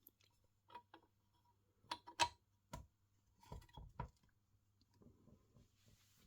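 A scattered handful of light clicks and knocks from tools or parts being handled on a workbench, the loudest pair about two seconds in, then faint rustling.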